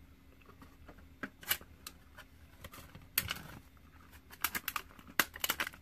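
Close mouth sounds of chewing a nori-wrapped rice ball: irregular wet clicks and crackles, bunched in a burst near the middle and a quicker run in the last second and a half.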